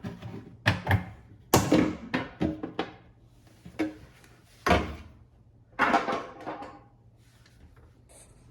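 Irregular knocks and clatters of a refrigerator being opened up by hand, its door and drawers handled. The loudest knock comes about one and a half seconds in, with further bunches of clatter shortly after and around six seconds in.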